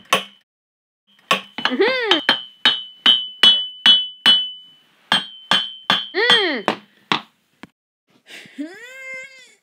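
Hammer-like metallic tapping in an even rhythm, about two or three strikes a second, each with a short ring, stopping about seven seconds in. Three short voice-like sounds rise and fall in pitch, two during the tapping and a fainter one near the end.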